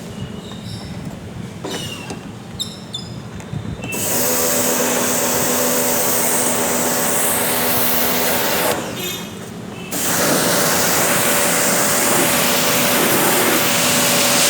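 Electric pressure washer running and spraying water, a motor hum under the loud hiss of the jet, in two long spells with a short stop of about a second between them.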